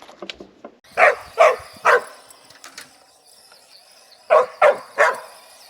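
A puppy barking: three quick barks about a second in, then three more near the end.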